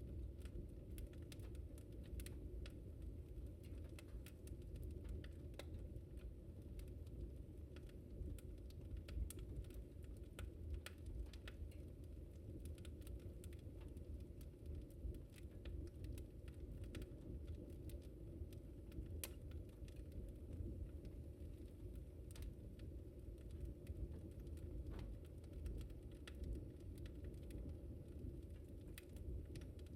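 Wood fire crackling in a fireplace: irregular sharp pops and crackles over a steady low rumble of burning.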